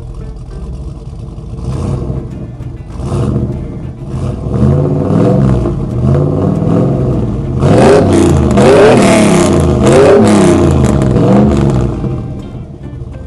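Vehicle engine revving up and down repeatedly, growing louder and loudest in the second half before dropping away near the end, over background music.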